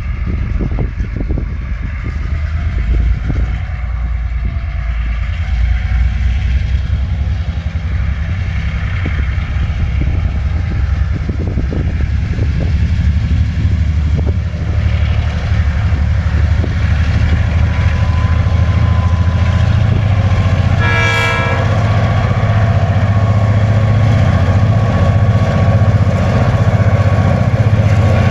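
Diesel-electric locomotives and loaded coal wagons rolling past with a steady low rumble and repeated wheel clicks over the rail. A short horn blast sounds about three quarters of the way through.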